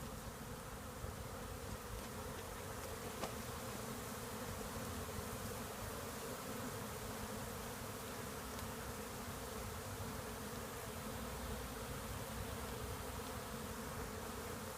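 A honeybee swarm buzzing in a steady, even hum as the bees mill around the capture box they were shaken into, stragglers following the queen inside.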